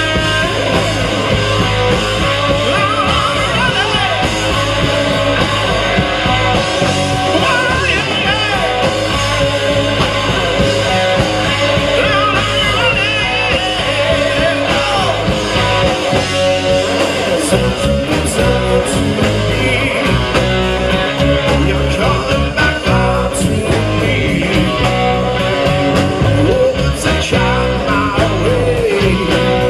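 Live rock band playing a song: amplified guitars, bass and drums with a sung vocal.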